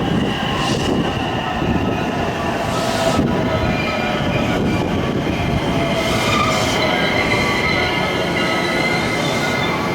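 JR West electric train moving through the station: a steady rolling rumble with wheels squealing in several high, held tones.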